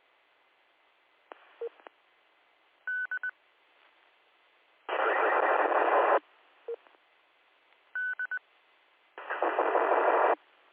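Amateur radio repeater audio with no voice: sets of three quick high beeps, the repeater's courtesy tone, repeat every few seconds. Twice a burst of squelch hiss about a second long comes through, the loudest sound, as the repeater is keyed without speech, which net control puts down to intermod.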